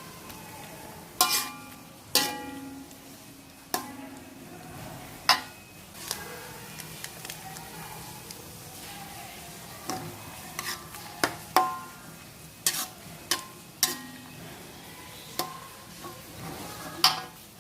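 A metal cooking utensil stirring in a pot and knocking against its rim, giving about fifteen sharp clinks at irregular intervals, several of them briefly ringing.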